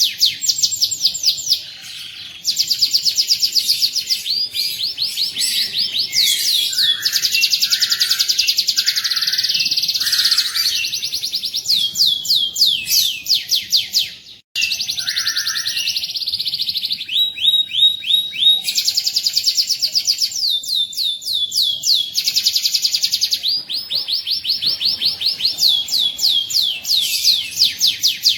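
Domestic canary singing a fast, continuous song made of rapid repeated trills (rolls), one high phrase running into the next. The song cuts out for an instant about halfway through.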